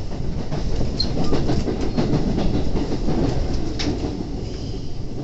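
HARUKA limited express electric train rolling slowly past, its wheels rumbling steadily on the rails, with a few sharp clicks over the track.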